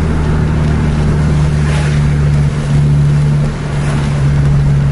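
A car driving at speed on a wet road, heard from inside: a loud, steady low engine drone over a hiss of tyres and road spray.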